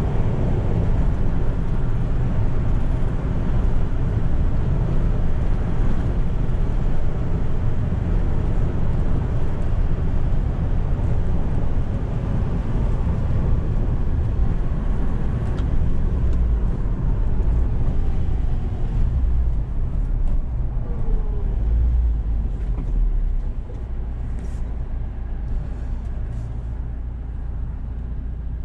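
Cab interior sound of the 1988 Toyota Hiace's 1.8-litre 2Y four-cylinder gas engine and road rumble while driving. About twenty seconds in a tone falls in pitch as the truck slows, and from a few seconds later it runs quieter.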